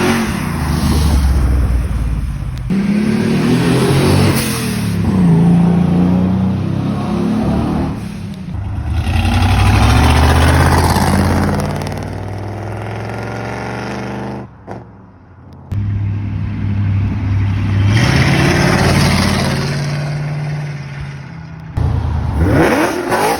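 Car engines accelerating hard, pitch climbing and then dropping back several times as they revs rise and fall, in several short clips cut one after another with a brief lull partway through.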